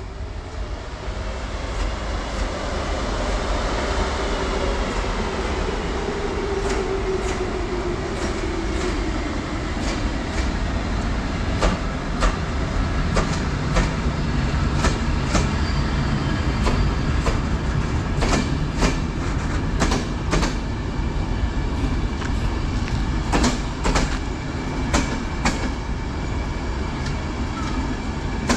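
BDZ class 44 electric locomotive hauling a train along the platform: a rumble that grows as it approaches, with a tone falling in pitch over several seconds, then a long run of sharp wheel clicks over rail joints and points as the train rolls past.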